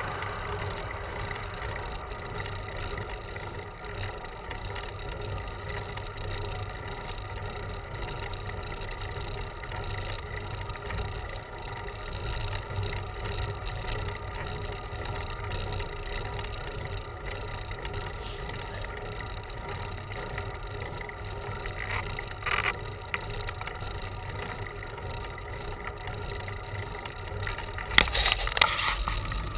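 Steady wind and road noise from a bicycle ride, with a brief rattle partway through and a short burst of knocks and rattles near the end.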